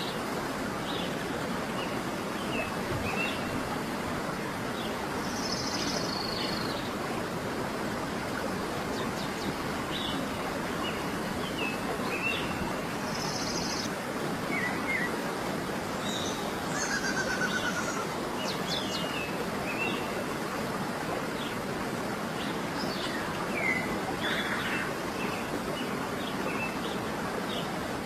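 Wild birds calling and chirping on and off over a steady rushing background noise.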